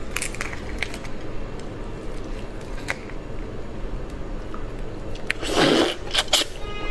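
Close-miked eating sounds: chewing with small wet clicks and squishes, and one louder, longer noisy sound about five and a half seconds in.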